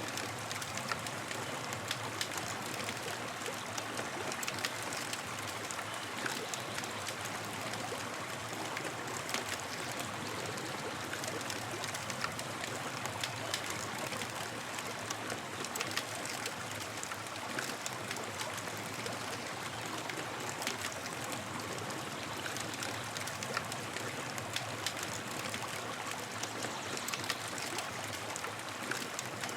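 Campfire burning: a steady hiss with frequent small crackles and pops throughout.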